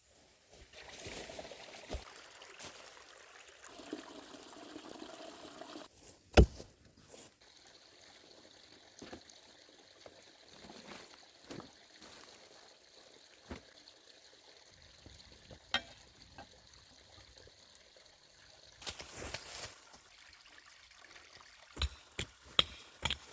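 Water pouring and trickling for the first few seconds, then one sharp knock, the loudest sound, about six seconds in. Scattered light knocks follow, with a short rustling burst near the end.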